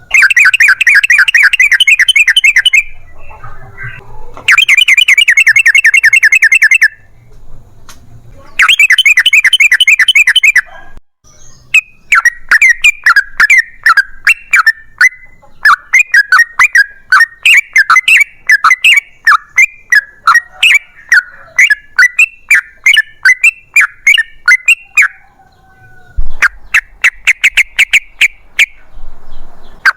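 Yellow-vented bulbul (trucukan) singing its long rapid-fire song. Three loud trills of fast repeated notes, each about two seconds long, are followed by a long run of quick choppy notes, with another trill near the end.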